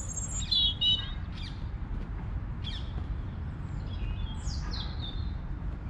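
Wild birds chirping, several short high calls and trills scattered through, over a steady low rumble.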